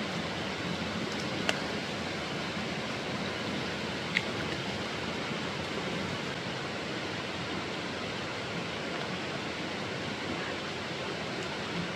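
Mountain stream rushing steadily, an even rushing hiss, with two brief sharp clicks or pops about a second and a half in and about four seconds in.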